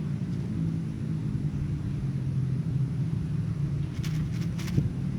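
A steady low engine hum, with a few sharp clicks about four seconds in.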